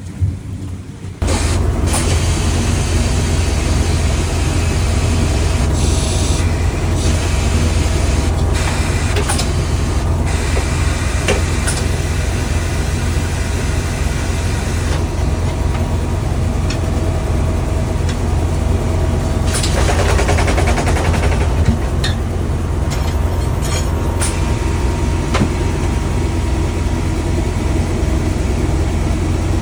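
Loud, steady vehicle noise: a low rumble with a hiss over it, starting suddenly about a second in.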